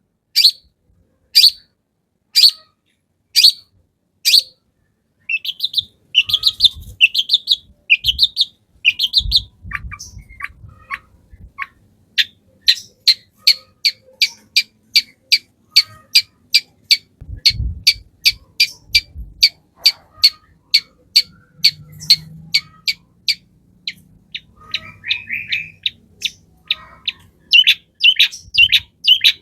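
Long-tailed shrike (cendet) calling with sharp, high, repeated notes: about one a second at first, then a fast even run of about three a second through the middle. A few low thuds sound underneath.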